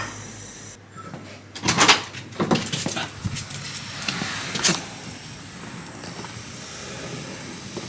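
A Shiba Inu making a few short sounds, clustered about two to five seconds in, with a faint steady high-pitched tone behind them.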